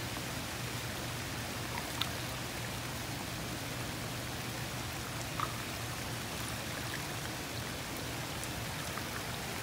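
Steady rain mixed with floodwater running through a freshly cleared ditch, a constant even wash of sound with a couple of faint taps about two and five seconds in.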